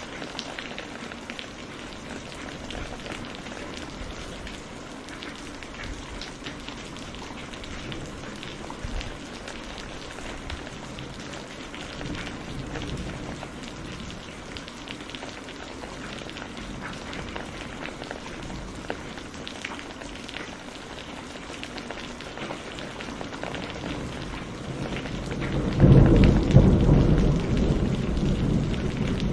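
Steady rain falling, with a loud low rumble of thunder breaking in near the end.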